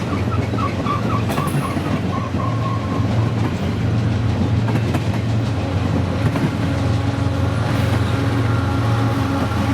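Freight train passing close by, with a steady low locomotive rumble and wheels clacking over the rails. A rapid repeated ringing tone fades out about three seconds in, and faint steady tones come in near the end.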